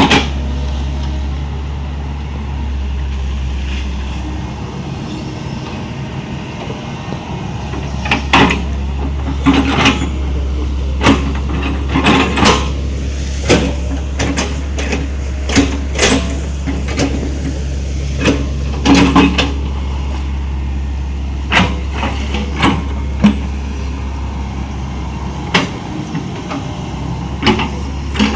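A Hitachi 110 hydraulic excavator's diesel engine runs steadily with a deep hum. From about a third of the way in it is joined by repeated, irregular sharp knocks and clanks as the machine works.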